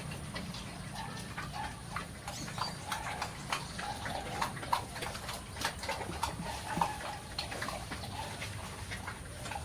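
Pigs grunting, with many short clicks and knocks running through the whole stretch.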